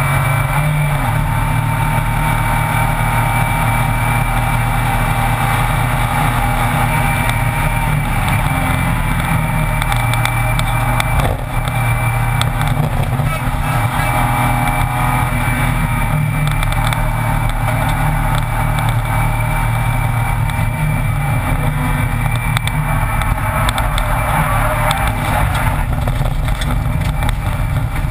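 BMW E36 race car's engine running hard at speed, heard inside its stripped, roll-caged cabin along with tyre and wind noise. Its note shifts in steps through the lap, with a brief dip about eleven seconds in.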